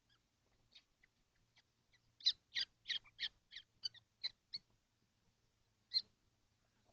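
Common kestrels in a nest box calling: a quick run of about eight short, sharp calls, about three a second, beginning about two seconds in, then one more call near the end.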